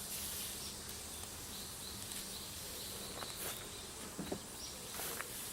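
Honeybees buzzing in a steady low hum, with a row of faint short high chirps in the middle and a few light clicks.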